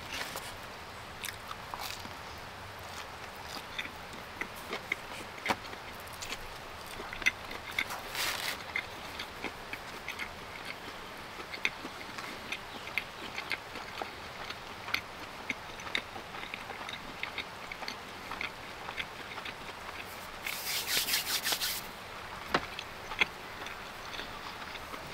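A person chewing pizza close to the microphone: many short, sharp mouth clicks and smacks, with two brief crackly bursts, about eight seconds in and again about twenty-one seconds in, over a steady faint hiss.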